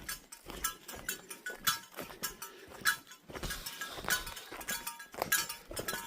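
Footsteps on a forest trail, with something small and metal on the hiker's gear clinking and jingling in time with the steps.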